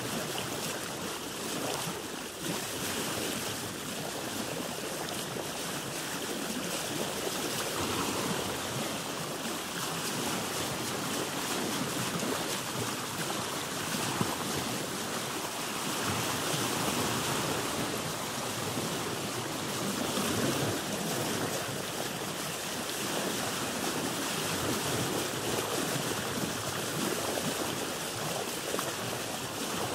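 Sea water rushing and washing around a boat on the ocean, a steady rush with gentle swells in level.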